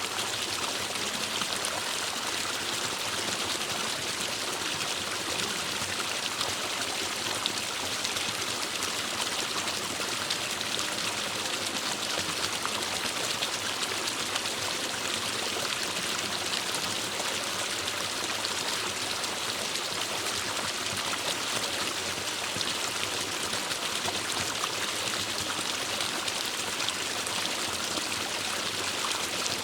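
Forest stream of water flowing steadily over rocks, a continuous even rushing and splashing with no breaks.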